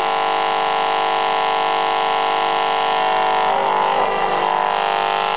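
Loud, steady electrical buzz with many overtones from an RF radiation meter's audio output as the microwave oven's magnetron cycles back on, the meter sounding the microwave energy leaking from the oven.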